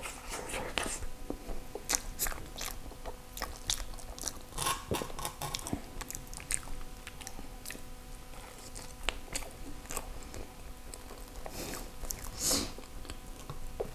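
Chewing and mouth sounds of a person eating a soft durian crepe cake, with scattered short clicks throughout. A wooden spoon scoops into the creamy filling.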